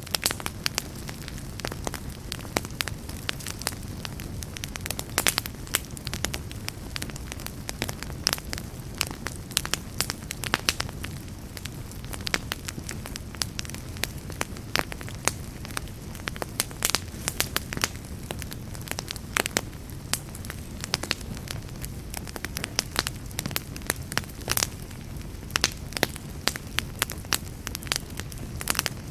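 Wood fire crackling, with frequent sharp, irregular pops and snaps over a steady low rumble of the flames.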